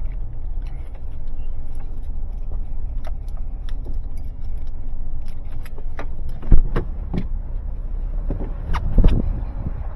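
Steady low motor-vehicle rumble with small clicks and jangling keys, and a sharp thump about six and a half seconds in.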